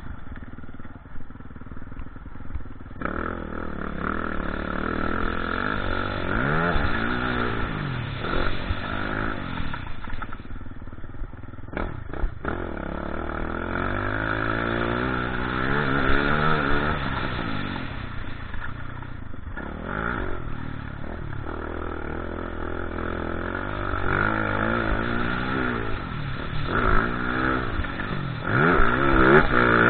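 Motocross motorcycle engines revving hard, the pitch climbing and dropping again and again through throttle and gear changes, with a sharp clatter about twelve seconds in. The engines are loudest near the end.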